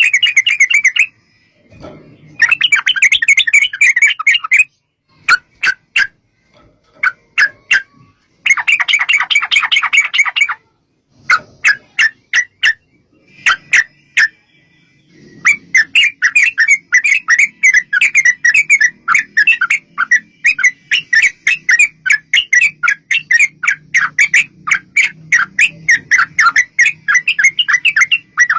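Yellow-vented bulbul (trucukan) song in long rapid chattering runs. The first half comes in separate bursts with short gaps between them, and from about halfway the notes run on without a break.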